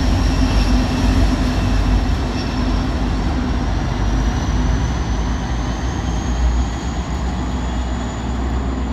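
Union Pacific maintenance-of-way tie train rolling past: a steady rumble of wheels on rail, with a thin high-pitched ring that slowly rises in pitch.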